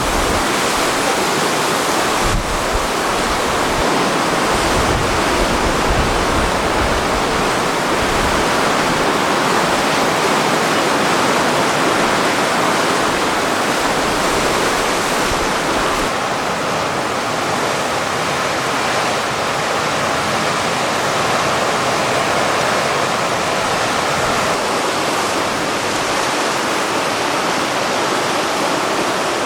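Sea waves breaking as a steady, loud rush of surf, with wind rumbling on the microphone through roughly the first half.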